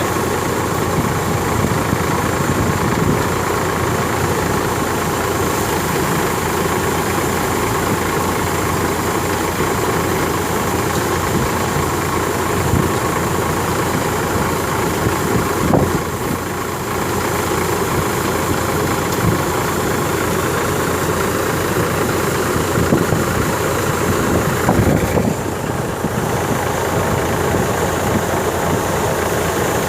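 Tractor-driven wheat thresher running steadily: the tractor's engine and the thresher's machinery make a continuous, even machine noise, with a couple of brief louder knocks about halfway through and again near the end.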